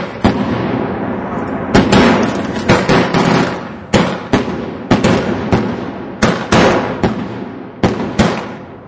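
Fireworks going off: about a dozen sharp bangs at irregular intervals, each trailing away, with a rushing hiss between them.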